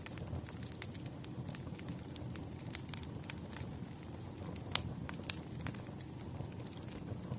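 Burning firewood crackling: irregular sharp pops and snaps over a low, steady rumble, with one louder pop about five seconds in.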